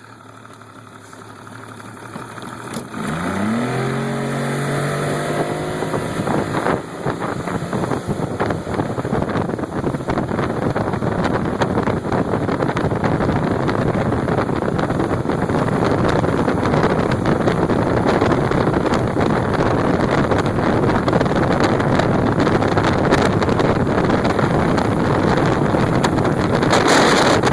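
Motorboat engine revving up about three seconds in as the boat accelerates, then running at speed under a loud, steady rush of wind and water.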